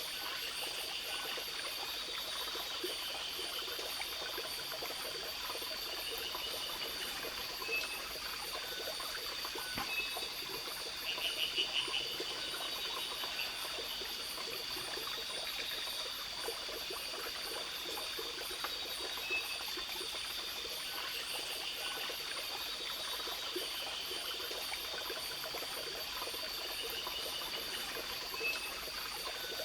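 Forest night ambience: a stream running steadily under a continuous insect chorus, a high steady drone and fast high-pitched pulsing. About eleven seconds in a louder short pulsed trill sounds, and a few brief chirps come scattered through.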